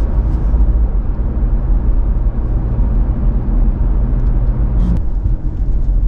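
A car's engine and tyre noise heard from inside the cabin while driving: a steady low rumble that thins briefly about five seconds in.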